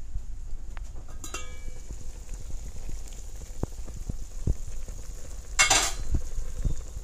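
Seasoned chicken sizzling in an enamel pot, with scattered pops. The pot's enamel lid gives a ringing clink about a second in as it is lifted, and there is a short harsh rush of noise near the end.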